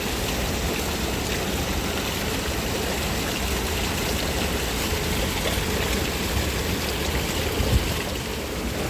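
Steady rush of running water, even throughout, with one light knock about three-quarters of the way through.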